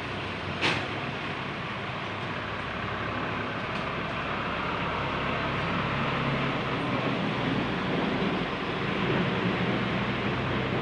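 An engine running steadily with a low hum, growing slightly louder, with one sharp click under a second in.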